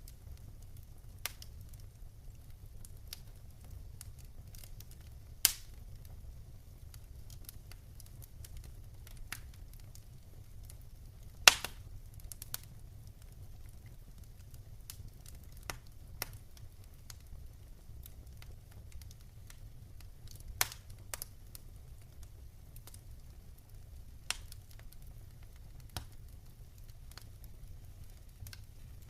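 Wood fire in a fireplace crackling, with scattered sharp pops (the loudest about eleven seconds in) over a steady low rumble.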